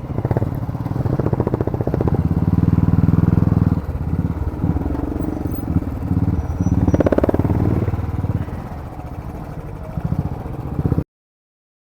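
Motorbike engine running while being ridden, louder in two stretches of throttle and steadier towards the end. The sound cuts off abruptly about eleven seconds in.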